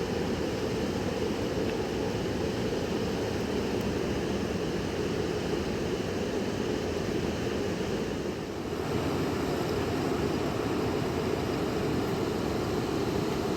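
Steady rushing of a fast river, the water noise deep and even, with a brief dip about two-thirds of the way through.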